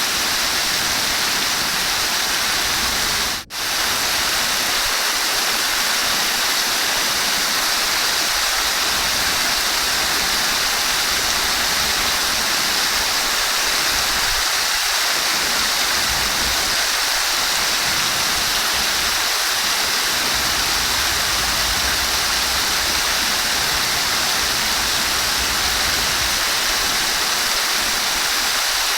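Running water rushing steadily, an even hiss with one very brief dip in level about three and a half seconds in.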